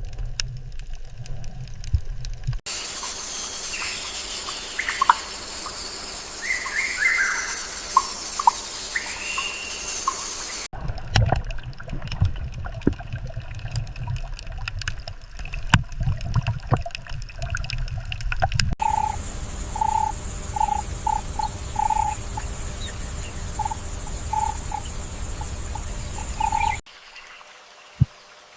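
Nature sound beds cut one after another. First comes a low rumble, then birds chirping over a high, steady hiss. After that is more low rumble with scattered clicks, then a short call repeated about a dozen times over the hiss. It ends quietly with a few low thumps.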